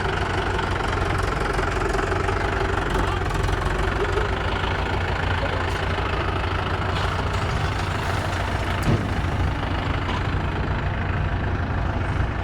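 Mahindra XP-series tractor's diesel engine running steadily at idle, with one brief louder blip about nine seconds in.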